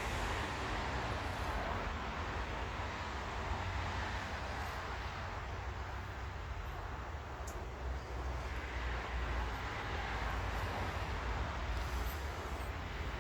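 A steady low machine hum with an even hiss, with a few faint ticks.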